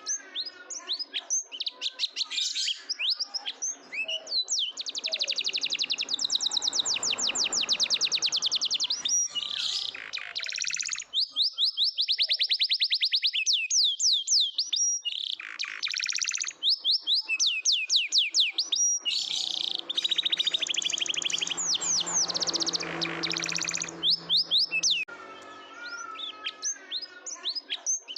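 Domestic canary singing a long, continuous song of rapid trills and rolls, with quick repeated high notes and short chirps between the runs.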